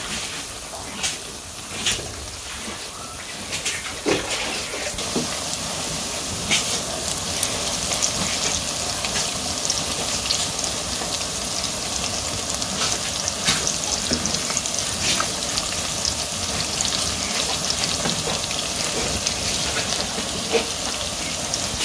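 Lentil-paste and drumstick-leaf fritters (sajna patar bora) frying in hot oil in a karai: a steady sizzling hiss with scattered crackles and pops.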